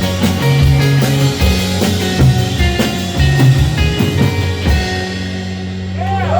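Live rock band playing with drums, bass and guitar. The drum hits stop about five seconds in, and held notes ring on as the song draws to its close.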